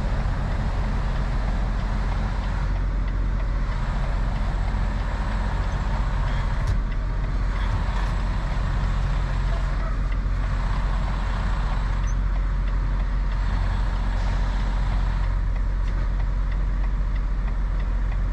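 Semi truck's diesel engine running steadily at low revs, a constant low hum, as the truck is eased slowly into a parking space.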